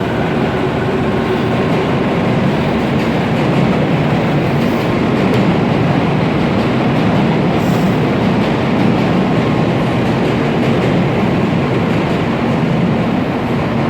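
Kyushu Shinkansen 800 series train running, a loud steady rushing rail noise, with a faint high tone in the first few seconds.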